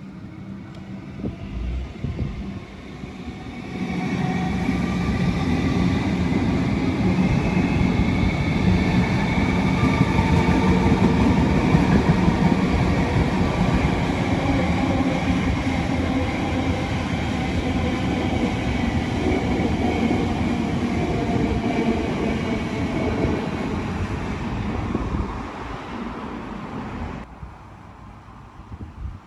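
A train running on rails: a steady rumble that builds about four seconds in, stays loud, then falls away near the end.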